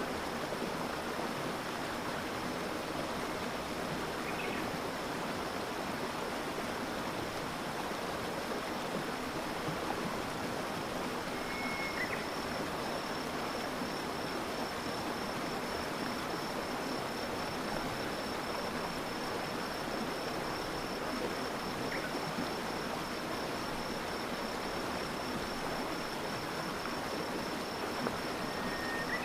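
Water of a clear stream flowing steadily, an even rushing and babbling. About a third of the way in, an insect starts a high, steady pulsing trill that goes on to the end, and a few brief faint chirps come through now and then.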